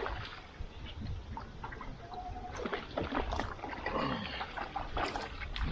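Scattered clicks, knocks and light water sounds from fishing out of a small boat.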